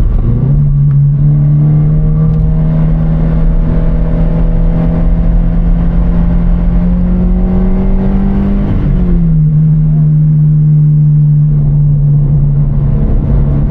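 Car engine running steadily, its pitch climbing slowly for about eight seconds, then dropping quickly about nine seconds in and holding steady again.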